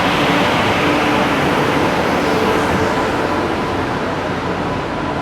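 Passenger train running, a loud steady rumble that eases slightly toward the end.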